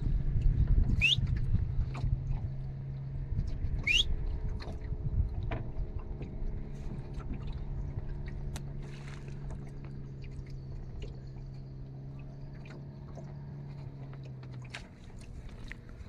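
Boat's outboard motor running at a steady low hum, which stops shortly before the end. Two short rising whistle-like calls cut across it about a second in and again a few seconds later.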